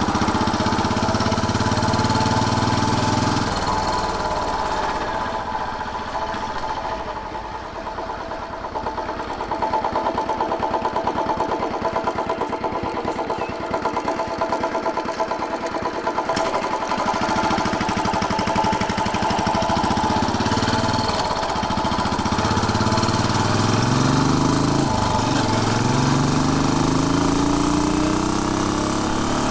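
Royal Enfield Bullet 500's single-cylinder four-stroke engine running on the move: the revs drop about three or four seconds in, stay low for a long stretch, then rise steadily in pitch through the last several seconds as the bike accelerates.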